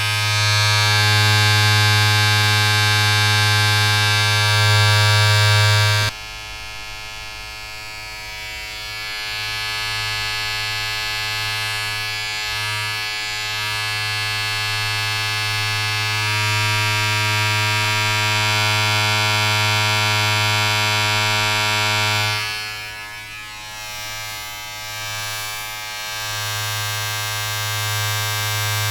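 Steady electric buzzing of a small motor-driven appliance, a low hum with a dense, bright overtone. It drops sharply in level about six seconds in, builds back up, then dips again about three-quarters of the way through before returning.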